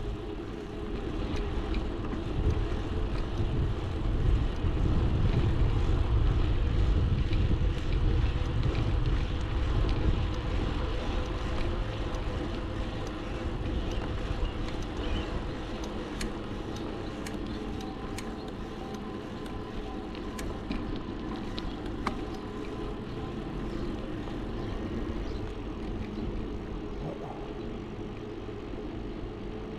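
Riding noise from an e-bike in motion: wind rumble on the camera microphone and road noise, louder for the first ten seconds or so and then easing to a steadier hum.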